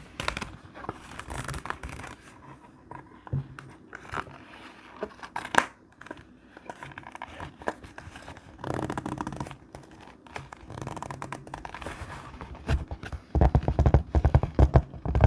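Thick scrapbook paper being handled: irregular rustling, crinkling and tearing with scattered small clicks. Near the end comes a quick run of louder rubbing strokes.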